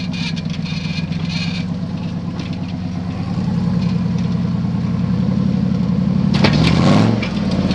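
Rock-crawling buggy's engine running at low revs, picking up a little about three seconds in, then revving hard and dropping back near the end, with a burst of sharp cracks during the rev.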